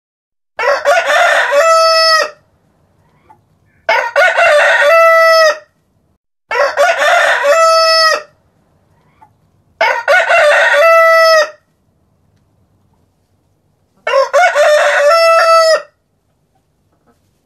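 Rooster crowing five times. Each crow lasts about two seconds and ends on a long held note, with short pauses between them and a longer pause before the last.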